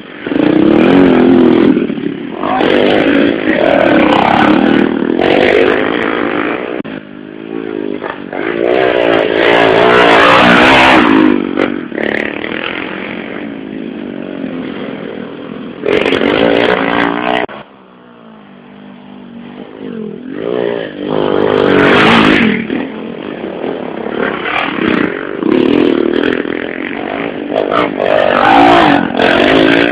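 110cc single-cylinder race motorcycles revving hard and passing, the engine pitch rising and falling over and over, briefly fading to a quieter stretch about two-thirds of the way through before swelling again.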